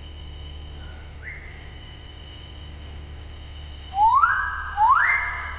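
Steady chorus of insects, with a bird giving loud rising calls starting about four seconds in. Each call sweeps upward and then holds, and there are two of them in quick succession.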